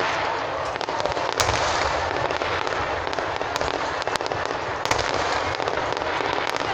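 Aerial fireworks bursting: a dense, unbroken crackle with many sharp bangs through it, the loudest a little over a second in and again near five seconds.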